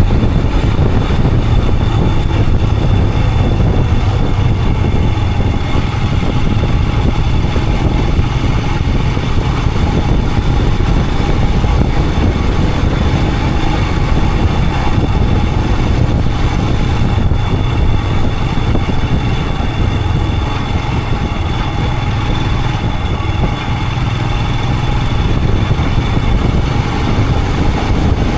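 Royal Enfield Himalayan 411's single-cylinder engine running steadily under way on the road.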